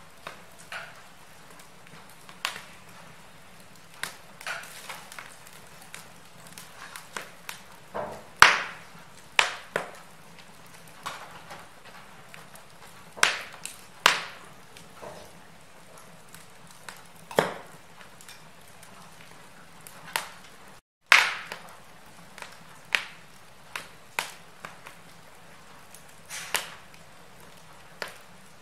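Wood fire crackling in a fireplace: irregular sharp pops and snaps, a few of them loud, over a soft steady hiss. The sound drops out for a split second about two-thirds of the way through.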